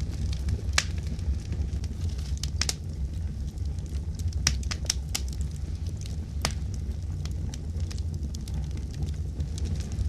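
Wood fire crackling in a fireplace: a steady low rumble of burning with scattered sharp pops and snaps, several coming close together around the middle.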